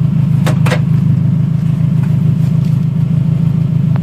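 Toyota Camry race car's engine idling, a loud steady low rumble heard from inside its stripped-out cabin. Two short clicks sound about half a second in.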